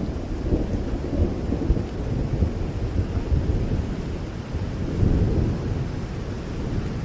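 A rainstorm: steady rain with a deep, continuous thunder rumble that swells about five seconds in.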